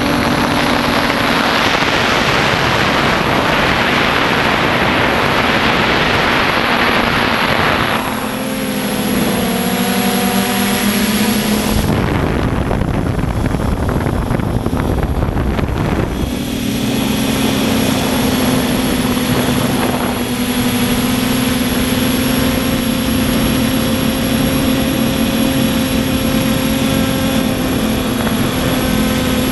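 Quadcopter's electric motors and propellers whining steadily in flight. The pitch dips for a few seconds about a third of the way in. A rushing noise rides over it for the first eight seconds or so, and a low rumble comes midway.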